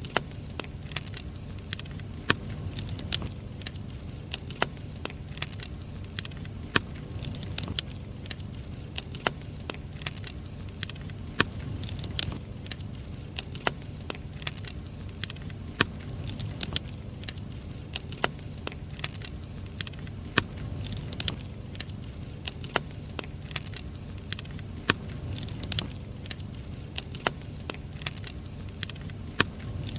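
Firewood burning in an open fire, crackling and popping with frequent irregular sharp snaps over a steady low rumble of the flames.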